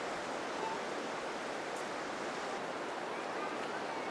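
Steady rushing noise like flowing water, with a few faint short chirps over it.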